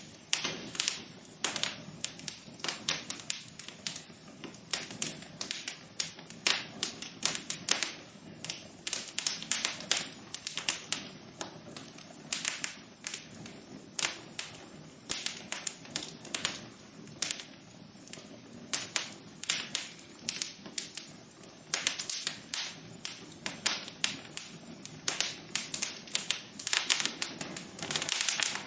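Fire burning in a fireplace, crackling: many irregular sharp pops and snaps over a soft steady hiss.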